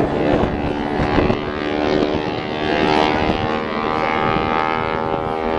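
Propeller airplane engine droning overhead in a many-toned hum, its pitch bending up and back down in the second half as it flies past.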